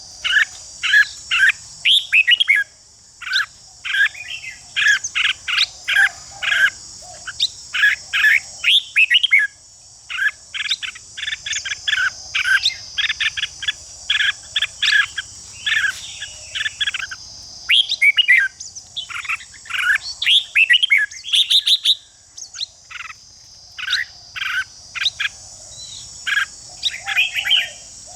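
Red-whiskered bulbuls singing fast, competitive song: quick runs of short whistled notes, one phrase after another with brief gaps. A steady high buzz runs underneath.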